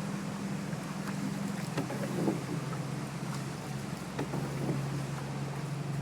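Motorboat engine running steadily, its note shifting slightly about four seconds in, with a few faint knocks over it.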